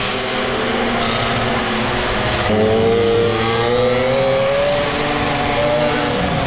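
Mini motorbikes racing, their small engines running at high revs, several pitches overlapping and slowly rising as they accelerate. A louder one comes in partway through and climbs steadily in pitch.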